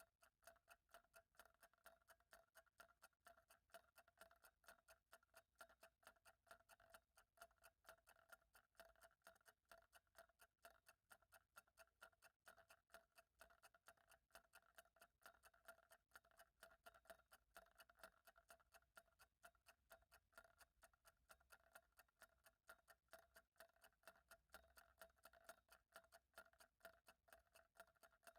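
Faint clock ticking in an even, unbroken rhythm.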